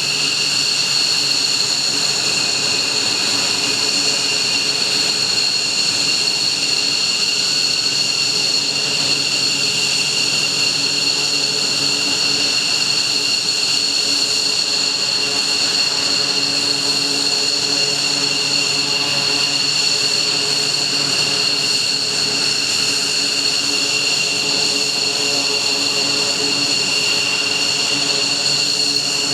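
F-15J fighter's twin turbofan engines running at ground idle after start-up, a steady high-pitched whine over a low rumble.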